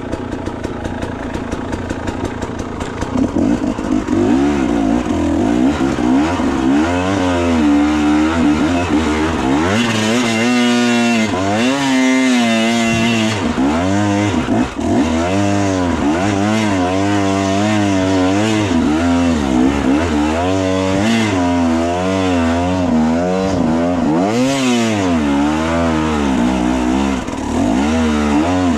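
Enduro motorcycle engine, steady for the first few seconds, then from about four seconds in revving up and down again and again as the throttle is opened and closed.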